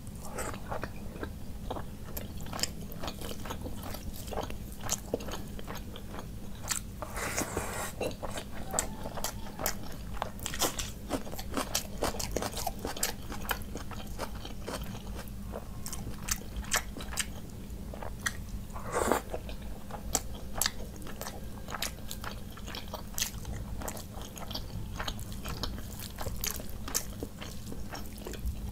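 Close-miked eating: a person chewing and crunching mouthfuls of rice and curry, with many small sharp mouth clicks and smacks and two louder, longer sounds about seven and nineteen seconds in. A steady low hum runs underneath.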